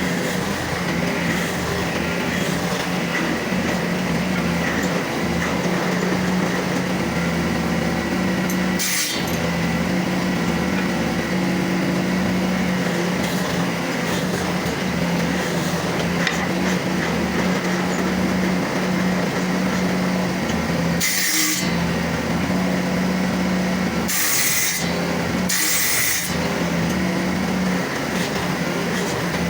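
Electric woodworking tool running steadily against wood: a steady motor hum under a rasping, scraping noise, with a few brief breaks.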